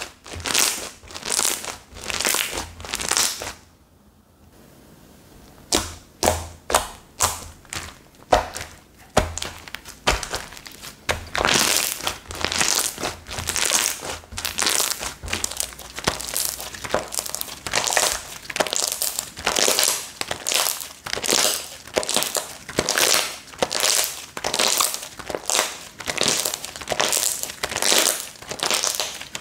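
Slime being squished and pressed by hand, making a run of crackling, popping squishes at about two a second, with a short pause about four seconds in.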